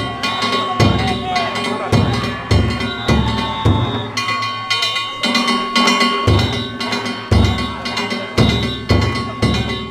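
Danjiri float's festival percussion (narimono): a big taiko drum beating about twice a second, with small metal gongs clanging and ringing over it.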